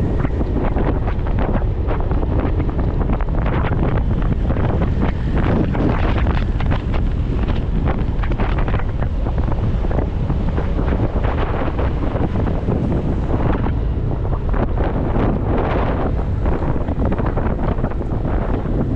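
Wind buffeting the microphone of a moving motorcycle in steady, uneven gusts, with the bike's running noise underneath.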